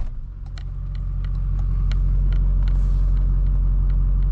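Tow truck engine running steadily, heard inside the cab, its level building back up over the first second or two. Light clicks tick along at about three a second over it.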